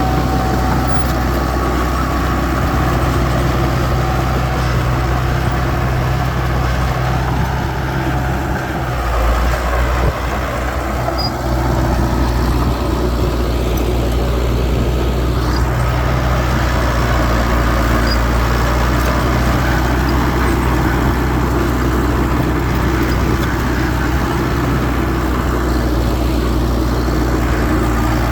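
Heavy earthmoving machinery's diesel engine running steadily at a low, even hum, with a brief dip in loudness about nine to eleven seconds in.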